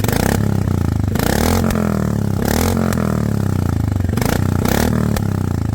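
Royal Enfield Classic 350 Reborn single-cylinder engine running loud with its exhaust silencer removed, open-pipe firing blipped up with the throttle several times.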